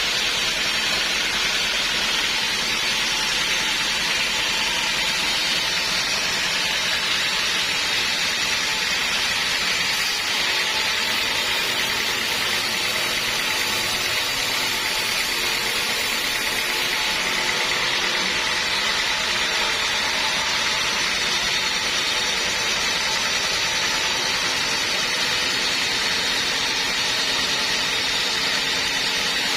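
Sawmill machinery running steadily: a continuous loud mechanical noise with no breaks.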